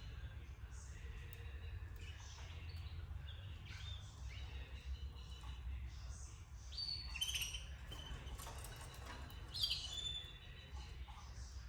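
Canaries chirping: scattered short calls, with a few louder chirps about seven and ten seconds in, over a low steady hum.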